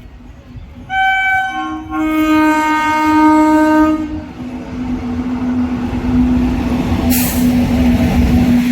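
Indian Railways electric locomotive sounding its horn twice, a short blast then a longer one. The train's rumble then builds as it comes past, under a steady hum.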